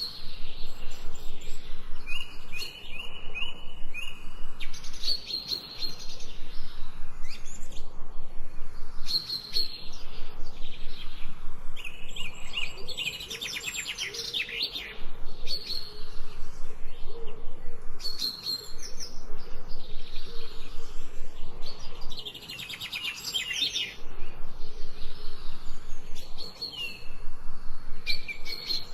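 Songbirds chirping and singing, rapid repeated high notes in runs of a few seconds with short pauses between them.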